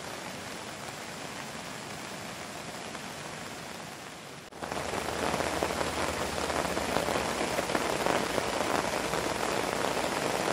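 Steady rain hiss, then, after a sudden cut about halfway through, louder and denser rain pattering on the canvas fly sheet overhead.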